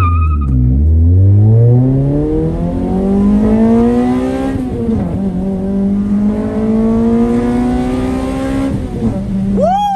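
Toyota Celica GT-S four-cylinder engine with an aftermarket intake accelerating hard from a standstill, heard from inside the cabin. The engine pitch climbs steadily through first gear, drops at an upshift about five seconds in, then climbs more slowly through second gear before the throttle lifts near the end.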